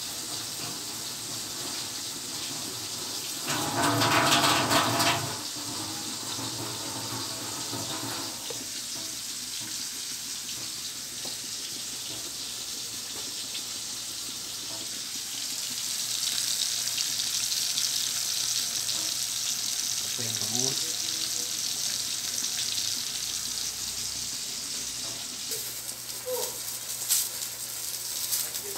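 Steady sizzling hiss of adobo simmering under a lid in a wok, with food frying in oil in a second wok. A brief louder noise comes about four seconds in, and a few sharp clinks near the end as the lid comes off and a metal ladle goes in.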